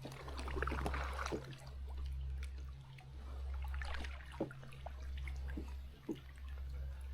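Kayak paddle strokes, about five of them, roughly one every second and a half. Each stroke brings a low swell of rumble, with water splashing and dripping off the paddle blades in between.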